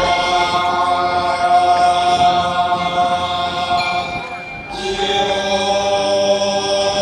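Chinese ritual music for the sacrifice to Heaven: slow chanting on long held notes, shifting to new notes about five seconds in.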